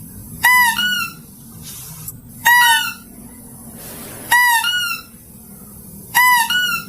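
Lesser mouse-deer (kancil) call played as a lure recording, repeated four times about every two seconds. Each call is a short pitched cry followed at once by a second, higher note.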